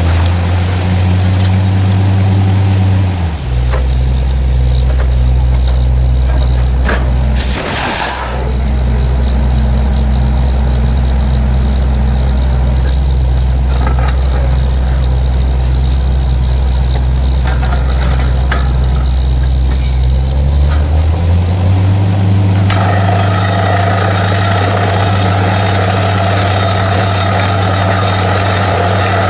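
Heavy diesel engine of a truck-mounted borewell drilling rig running under load. It drops to a lower speed about three seconds in and picks up again about twenty seconds in. A short sharp hiss of released air comes around eight seconds, and a steady rushing hiss joins near the end.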